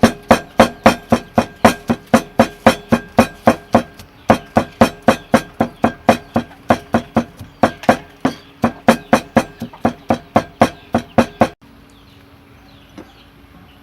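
Rhythmic knocking strikes of kitchen food preparation, about three a second, each with a short ringing tone, pausing briefly once and stopping abruptly near the end. Afterwards a faint steady hum remains.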